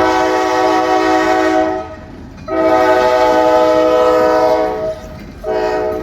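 Locomotive air horn sounding a loud chord in two long blasts and a short one, the opening of the long-long-short-long grade-crossing signal. A train rumbles beneath it.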